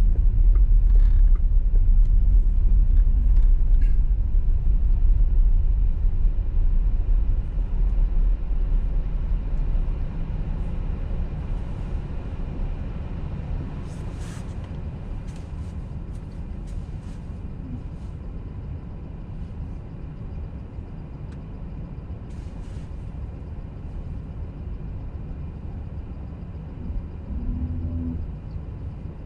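A car's road and engine noise while driving on a snowy motorway: a steady low rumble that is loudest at first and drops off over about ten seconds, with a few faint clicks scattered through it.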